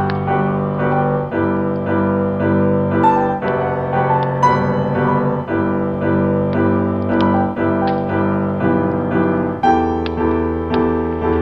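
Solo piano playing a slow, gentle cinematic piece, with notes struck at about two a second over sustained chords.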